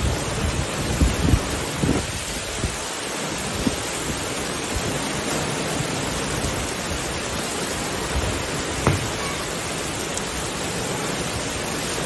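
Heavy rain pouring down in a steady dense hiss, with a few short low thumps in the first couple of seconds and again near nine seconds.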